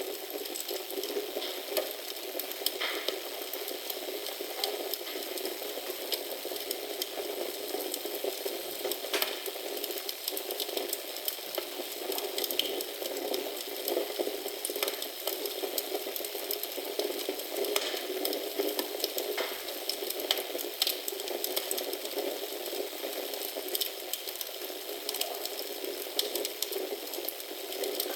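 Fire crackling in a fireplace: a steady hiss with frequent small crackles and a few louder pops scattered through.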